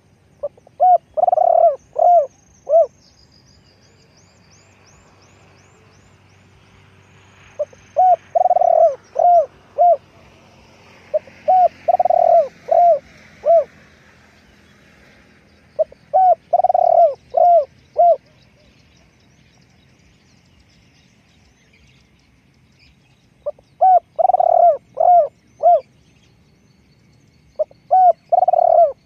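Spotted dove cooing: six phrases of several rolling coo notes each, a few seconds apart. Faint high chirping of small birds sounds behind it in the first few seconds.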